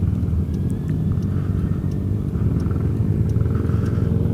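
Kymco Xciting 400i maxi-scooter's single-cylinder engine running steadily under way, a low rumble with road and wind noise.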